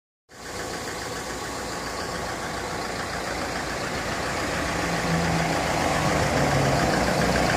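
Mercedes Sprinter van's newly fitted remanufactured OM646 four-cylinder diesel engine idling steadily, slowly getting louder.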